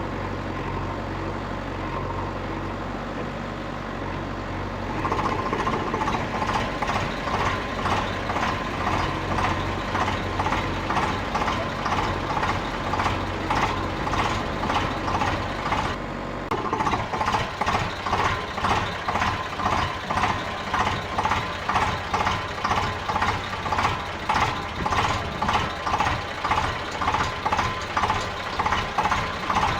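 Vehicle engine running steadily. From about five seconds in, a reversing beeper sounds about twice a second, the sign of the vehicle backing up.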